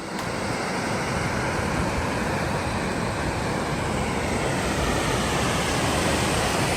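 Steady roar of a large waterfall, a dense even rush of falling water that builds slightly.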